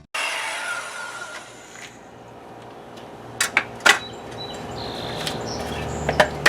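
A noise fading away over about a second and a half, then several sharp knocks and clicks of wooden boards and tools being handled.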